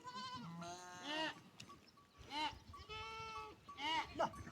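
A flock of sheep bleating, with several animals calling one after another and overlapping in a string of wavering bleats.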